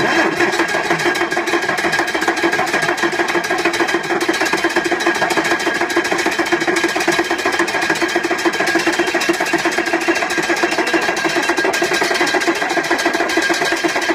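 Diesel engine of a 1959 Mercedes-Benz L330 truck running steadily at an even speed, with a fast, regular beat.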